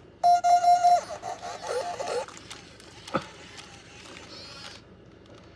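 Black 2008 i-Dog robot toy dog powering on: its speaker plays a steady electronic tone for under a second, then a short warbling electronic jingle of bark-like yips, followed by a single click about three seconds in. The voice is set to its low pitch setting and sounds really low.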